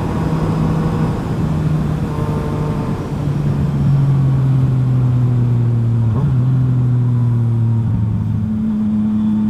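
Yamaha FZ-09's inline-three engine through a full M4 exhaust, running under way at fairly steady revs. The pitch drops a step just after the start and again about three seconds in, then rises near the end.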